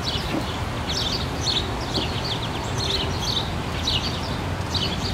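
Songbirds chirping, short high calls repeating about twice a second over a steady low background noise.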